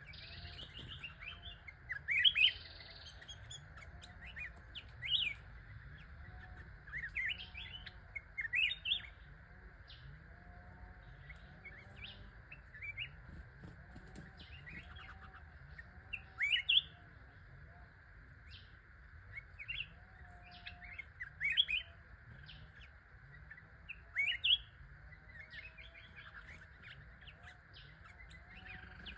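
A songbird, the bird the uploader calls charcoal-headed, calling in short, sharp rising chirps that come in bursts every few seconds, over a steady background hiss and fainter lower calls.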